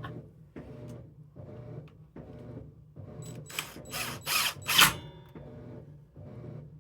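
Cordless drill driving a screw, in several short bursts in the second half, the loudest near the end of the run, after softer repeated sounds about twice a second.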